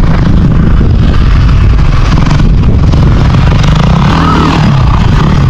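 Off-road vehicle engine running loud and close, with a steady low pulsing throughout.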